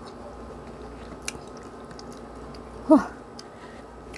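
Close-up eating sounds of instant fried noodles being chewed, with faint scattered clicks of a metal fork on noodles and a wooden board. About three seconds in comes a brief vocal sound from the eater that falls in pitch.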